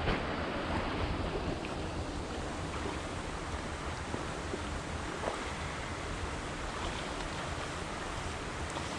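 Steady rushing noise of moving river water, mixed with wind on the microphone.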